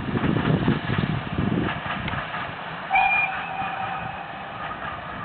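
Steam locomotive whistle blowing one long note about three seconds in, starting sharply and fading away over a couple of seconds, after a loud low rumble in the first couple of seconds.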